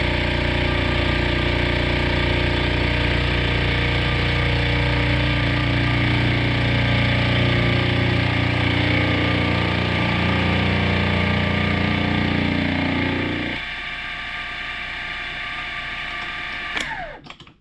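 Milling machine running steadily while it takes a cut across a bronze workpiece. About three-quarters of the way through, the low hum drops out and the sound gets quieter; near the end the machine is switched off and winds down with a falling whine.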